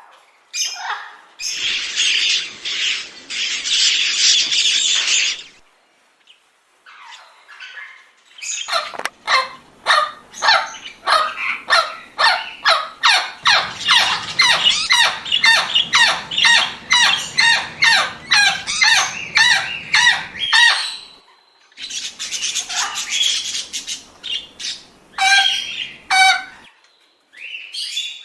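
Rainbow lorikeets screeching: a long, harsh screech, then after a short gap a fast run of short shrieks, about three a second, for some ten seconds, followed by a few more scattered calls.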